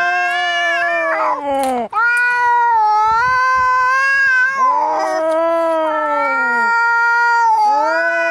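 Cats fighting and caterwauling: long, drawn-out overlapping yowls that waver in pitch and slide down at their ends, one after another with barely a break.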